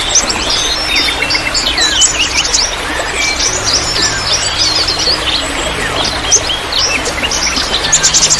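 Many small songbirds chirping and twittering at once, rapid short calls overlapping throughout, over a steady noisy background.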